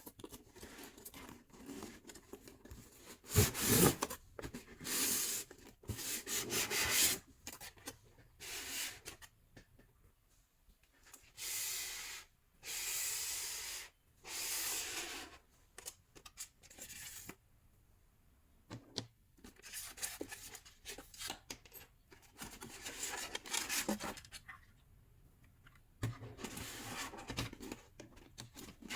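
Packaging being handled close up: irregular rubbing, scraping and rustling, with a few smooth one-second scrapes or pulls near the middle.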